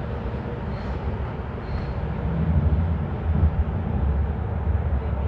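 VTA light rail train running, heard from on board as a steady low rumble that grows a little louder about two seconds in.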